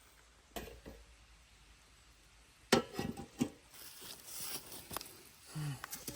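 Cooking gear being handled: a couple of light knocks, then a louder clatter of hard objects about three seconds in, followed by rustling and a short scrape near the end.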